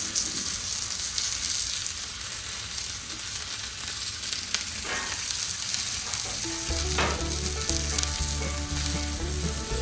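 Food sizzling steadily in hot oil on a freshly seasoned Blackstone steel flat-top griddle, with a few brief clicks.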